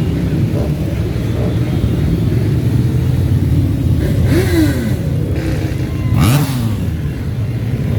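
A stream of motorcycles rumbling past together, with one engine revved a little past the middle and another revved sharply up and down about six seconds in.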